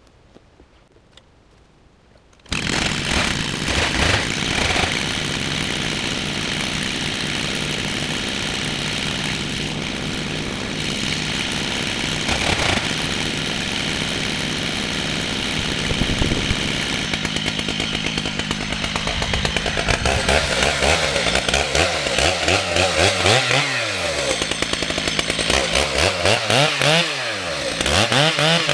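Two-stroke chainsaw on a chainsaw mill, running at full speed as it rips a red oak log. It comes in suddenly about two and a half seconds in and runs steadily; near the end its pitch twice dips sharply and recovers as the chain loads up in the cut.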